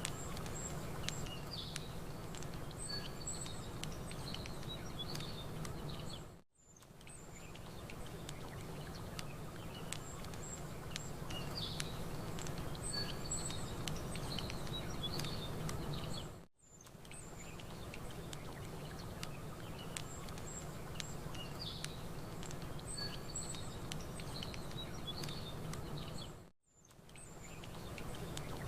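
Campfire crackling in small sharp clicks while small birds chirp, over a steady low background wash. Three times, about ten seconds apart, it all fades out for a moment and comes back, as the same short recording loops.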